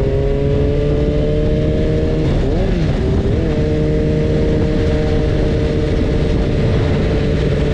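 BMW S1000RR inline-four engine running under way, its note climbing slowly, dipping briefly and picking back up about two and a half seconds in, over a steady low rush of riding noise.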